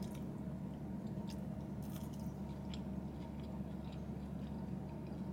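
A person chewing French fries close to the microphone, with a few faint mouth clicks, over a steady low hum.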